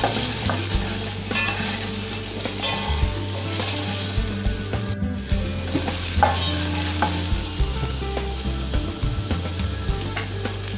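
Potato chunks sizzling as they fry in hot oil in a granite-coated pot, being browned. A spatula scrapes and knocks against the pot now and then as the pieces are turned.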